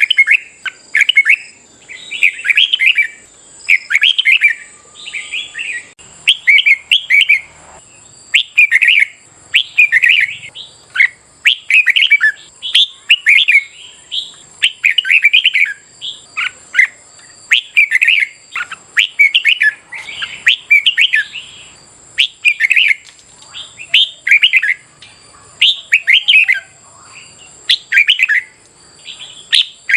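Red-whiskered bulbuls singing, short loud warbled phrases following one another about once a second without a break, over a faint steady high hiss.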